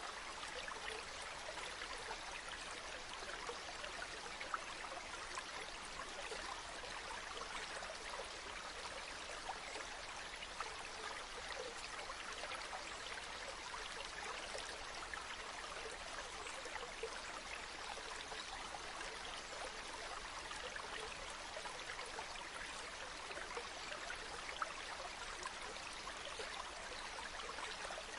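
A small stream running steadily, its water trickling and babbling, with a few brief louder splashes.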